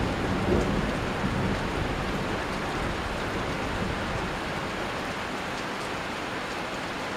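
Steady rain falling during a thunderstorm, with a low rumble of thunder dying away in the first second or two.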